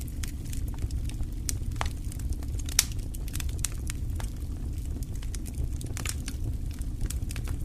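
Wood fire crackling in a fireplace: scattered sharp pops and snaps over a steady low rumble of the burning, with one louder pop a little under three seconds in.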